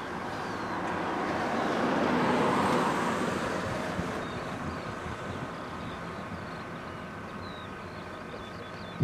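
Miniature railway train running along the track, its running noise swelling over the first few seconds and then easing off, with a few bird chirps later on.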